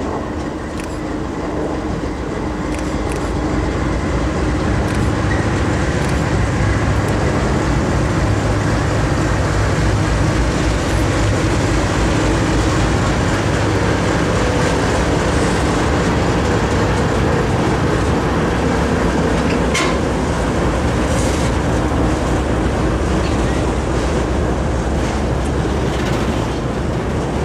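GE C40-8 diesel-electric locomotive's 16-cylinder engine drawing near and passing at track speed, growing louder over the first few seconds, then autorack freight cars rolling by with wheels clicking over the rail joints.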